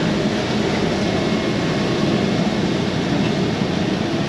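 Semi-truck diesel engine running steadily under load as the truck pulls through deep mud, a constant low drone.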